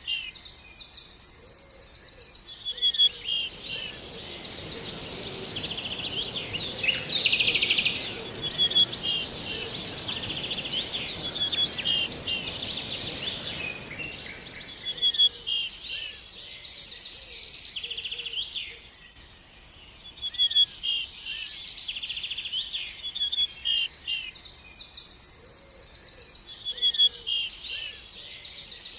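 Songbirds chirping and singing, with repeated short notes and fast trills, briefly pausing about two-thirds of the way through. A steady high-pitched hiss runs beneath them for the first half.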